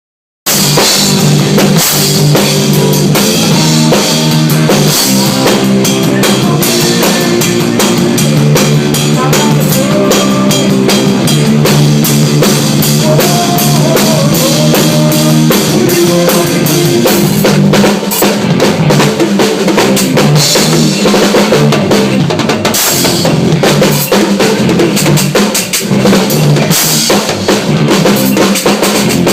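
Drum kit played as a solo, busy kick drum, snare and rimshots, over a band backing that holds steady low notes and plays a wandering melody line. It starts suddenly about half a second in.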